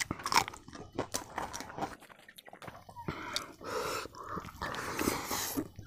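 A man chewing a mouthful of biryani eaten by hand, smacking his lips with many quick wet clicks, then a denser, noisier stretch of mouth sounds in the second half as he takes another handful.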